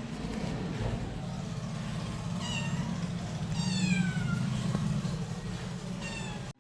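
Domestic cat meowing three times: a short high meow, then a longer one that falls in pitch, then another short meow.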